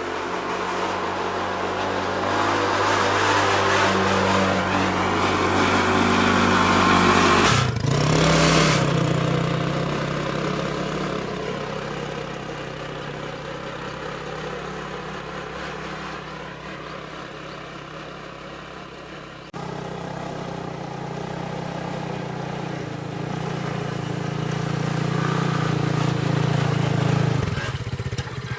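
Motorcycle engine running, getting louder over the first seven seconds and then easing off, with abrupt changes in the sound about eight and twenty seconds in.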